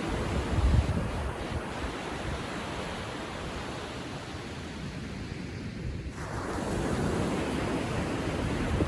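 Gentle Atlantic surf on a calm sea, small waves washing up the beach. The wash ebbs to a lull, then a fresh wave swells in about two-thirds of the way through, over a low wind rumble on the microphone.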